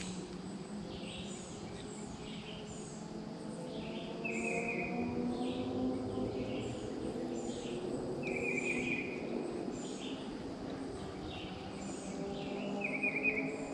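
Woodland birds singing: many short high chirps, with one bird giving a short buzzy trill three times, about four seconds apart. Underneath runs a low, wavering hum.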